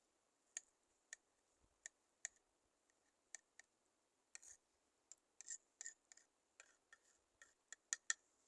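Faint, irregularly spaced sharp clicks, about twenty of them, with several in quick pairs near the end.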